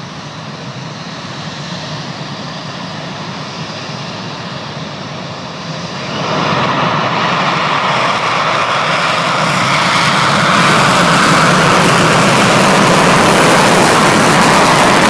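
F-15 fighter jet's twin turbofan engines during takeoff: a loud jet noise that jumps up about six seconds in, builds again around ten seconds and is loudest near the end.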